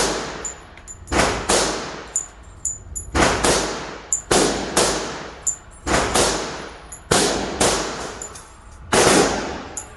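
A semi-automatic firearm fired in steady succession, about a dozen shots spaced roughly a second or less apart, each followed by an echoing tail. Light metallic pings come between the shots. This is a magazine being run through in a reliability test.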